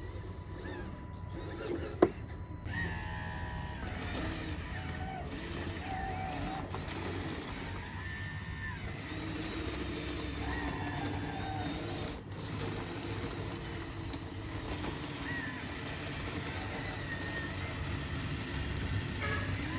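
Electric motors and gearboxes of RC construction machines whining in short stretches, each starting, stopping and shifting in pitch as the controls are worked, over a steady low hum. There is a sharp click about two seconds in.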